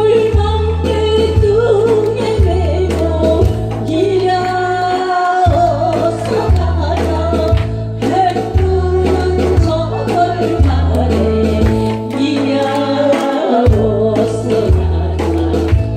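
A singer performs a Korean trot song over a backing band, the voice wavering with vibrato above a steady, repeating bass beat.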